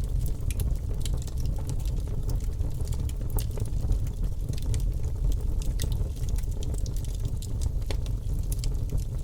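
Bonfire burning: a steady low rumble of the flames, with frequent sharp, irregular crackles and pops from the burning wood.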